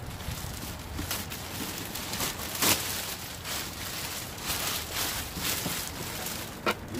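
Bags and their contents rustling and crinkling as they are rummaged through by hand, with a few sharp crackles, the loudest about two and a half seconds in and another near the end.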